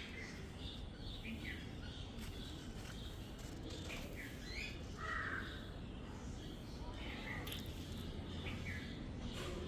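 Small birds chirping in short, scattered calls over a steady low background rumble, with one louder, lower call about five seconds in.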